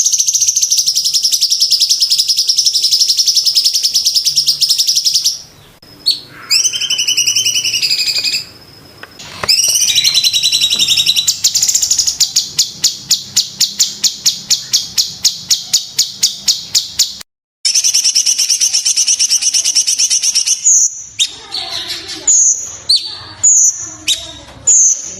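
Cucak cungkok singing: long, high, rattling trills, then a fast run of sharp repeated notes at about five a second. Near the end comes a string of short, clipped whistles at about one and a half a second, the dense 'tembakan' phrasing used in a masteran recording.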